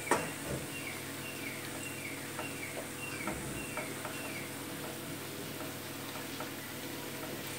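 Potato fingers coated in arrowroot and rice flour deep frying in hot oil in a kadhai, a steady sizzle, with a sharp knock of the wooden spatula against the pan just after the start. A string of faint short high chirps repeats in the background.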